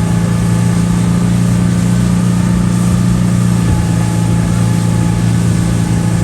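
Speedboat engine running loud and steady at an even pitch.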